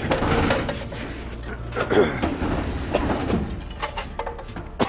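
Rumbling and rattling clatter of a heavy refrigerator being manhandled and moved, with scattered knocks.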